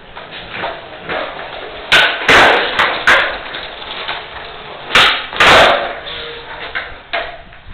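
Skateboard tricks on pavement: a series of sharp clacks and slaps from the board popping and landing, the loudest coming in two pairs about two and five seconds in.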